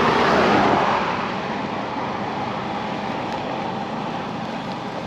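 Steady rushing road noise with no distinct engine note, swelling about half a second in and then holding level.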